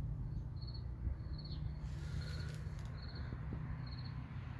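Crickets chirping in short pulsed trills, one about every second, over a steady low rumble.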